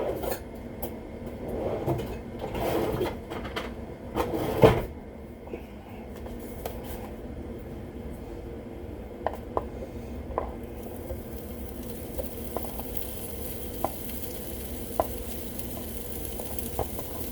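Dishes and utensils clatter as leftover pasta is handled, with a sharp knock about four and a half seconds in. Then food sizzles on a hot George Foreman electric grill, with scattered small pops and a hiss that grows louder in the second half.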